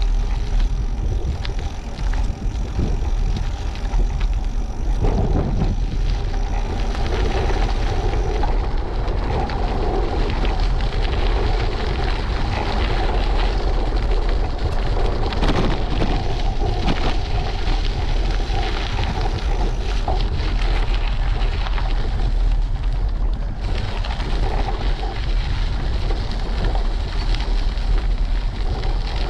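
Steady wind buffeting on a GoPro microphone while cycling, with road noise, strongest in the low rumble.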